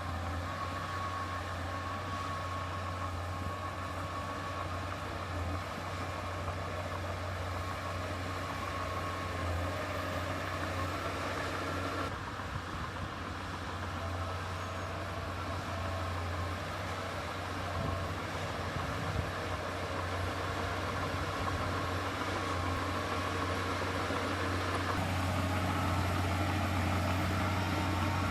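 Heavy diesel construction machinery running steadily with a low drone. The sound shifts abruptly about twelve seconds in and again near the end.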